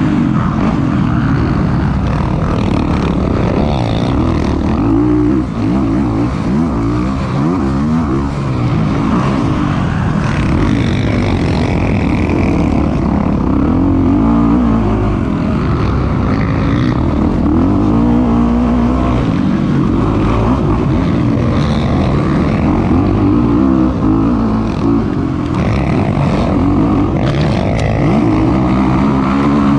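Kawasaki KX450 motocross bike's single-cylinder four-stroke engine running hard on the track, its pitch rising and falling again and again as the throttle is opened and shut.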